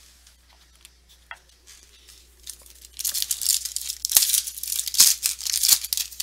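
Foil wrapper of a 2015 Bowman Chrome baseball card pack being torn open: quiet handling for the first few seconds, then a loud crackling tear about halfway through, with a few sharp snaps.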